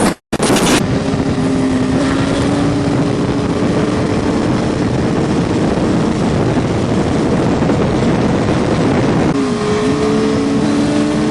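Sport motorcycle engine running at a steady speed under loud wind and road noise, with a brief drop and rise in pitch near the end, as in a gear change. A few sharp cracks come right at the start.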